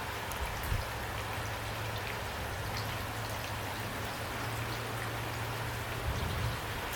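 Steady rain falling, with individual drops ticking over an even hiss and a low steady rumble underneath.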